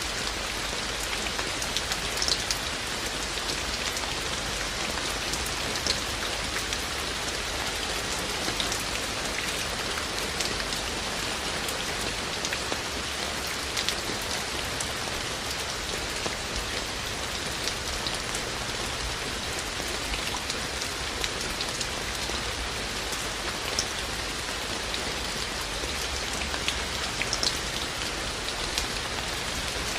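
Steady rain falling, a continuous hiss of rain with frequent sharp ticks of individual raindrops striking nearby surfaces.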